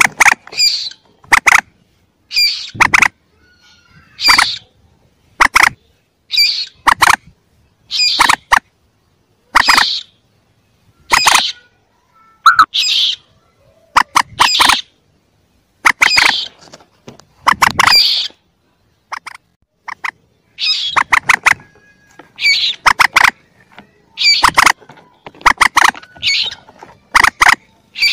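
Looped lure recording of young moorhen (burung mandar) calls: short, loud bursts of quick squeaky notes repeated about every one and a half seconds, played to draw in wild moorhens.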